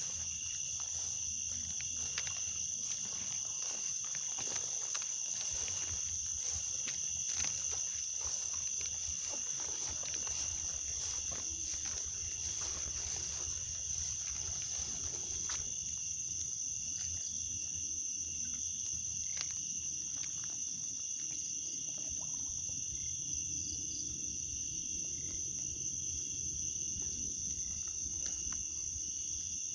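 Steady chorus of crickets and other insects, a continuous high trill, with scattered rustling and clicks during the first half.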